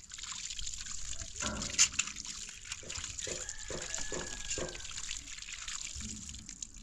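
Water running or splashing: a steady rushing hiss with small irregular splashes.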